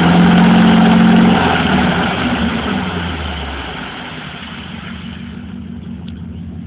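2003 Ford F-250 pickup's engine held at high revs, then easing off and fading over a few seconds to a lower, steady running sound, as the truck spins its wheels in mud.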